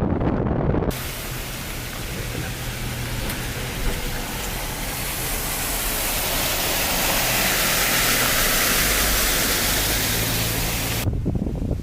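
Floodwater pouring over an overflowing weir: a steady rushing hiss that starts suddenly about a second in, grows louder toward the middle and cuts off near the end. Low wind rumble on the microphone comes before and after it.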